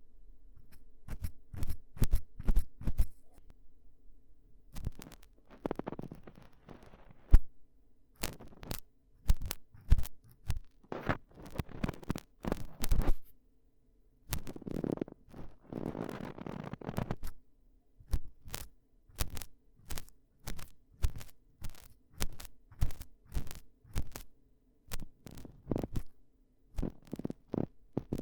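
Close-up ASMR ear-cleaning sounds: irregular scratching and clicking of ear-cleaning tools against a microphone, with a few longer rubbing passes.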